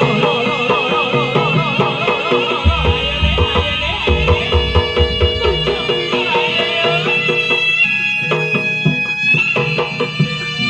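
Jaranan music: a slompret (Javanese shawm) plays a wavering, ornamented reed melody over kendang drums and gamelan percussion, with a deep low beat in the middle of the passage.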